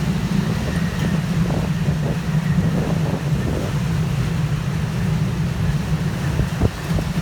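Tropical-storm wind buffeting the microphone: a loud, steady low rumble over a rushing noise.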